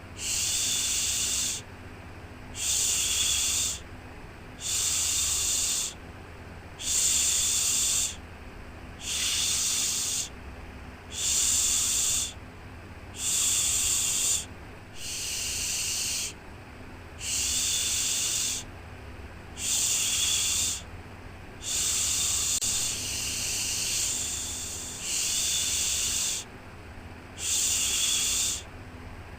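Rhythmic shushing, a 'shhh' repeated about every two seconds, each lasting a little over a second, as a sleep sound for babies. A faint steady low hum runs beneath it.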